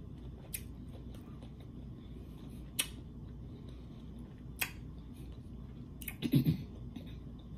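A person chewing crunchy raw baby cucumber with the mouth closed: a few sharp crunchy clicks a second or two apart, and a short voiced 'mm' sound from the eater about six seconds in.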